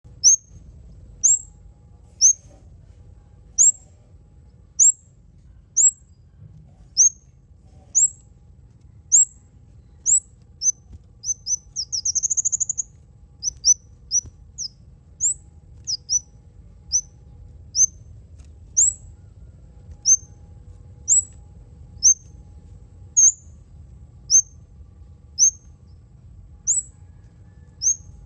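Kemade songbird giving sharp, very high chirps, each a quick downward sweep, about one a second. Near the middle it breaks into a brief rapid rattling trill.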